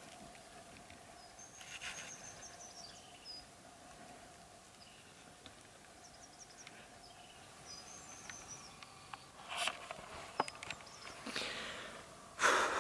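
Quiet pine-forest ambience with a small bird giving quick series of high chirps twice. Near the end come a few sharp rustles and clicks, then one louder rustle.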